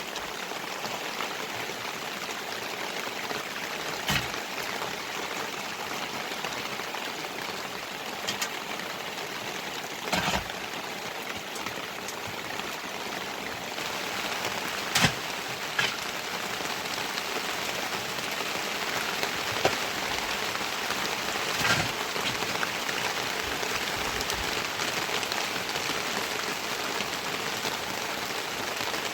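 Steady rain falling, with a few sharp taps of drops or drips scattered through it.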